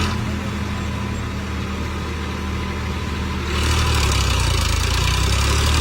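Tractor diesel engine running steadily at low speed. About three and a half seconds in the sound changes abruptly and gets louder, with more hiss joining.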